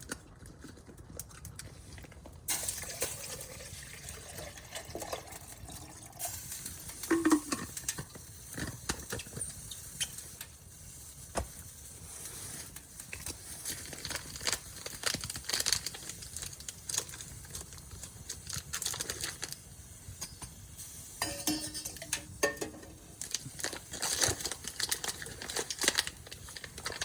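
Camp cookware clinking and knocking, with water sloshing, as coffee-making gear is handled; brief ringing clinks about seven seconds in and again near the end, over a steady hiss.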